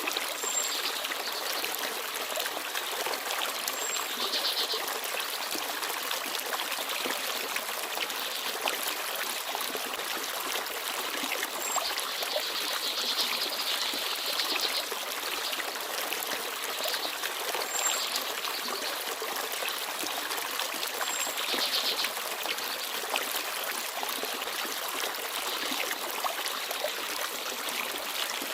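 Small forest stream babbling steadily over stones. A small bird gives brief, very high, thin calls every few seconds.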